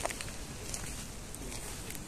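Outdoor park ambience: short, high bird chirps a few times over a steady low background noise.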